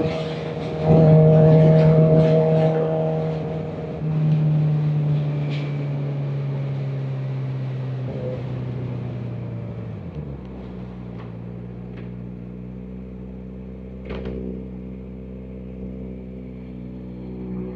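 Kawasaki Ninja ZX-4RR's inline-four engine running with wind hiss, its note falling slowly as the bike slows. About ten seconds in it settles to a steady, quieter idle, typical of coming to a stop at a light.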